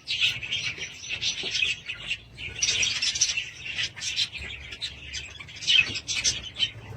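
Budgerigars chattering and warbling, a continuous flurry of short chirps with louder bursts every second or two.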